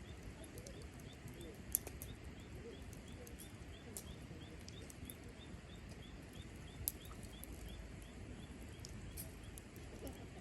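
Cherry-wood campfire burning with a low steady crackle, two sharp pops standing out about two seconds in and near seven seconds, and a few smaller snaps. A faint high chirp repeats evenly about four times a second behind it.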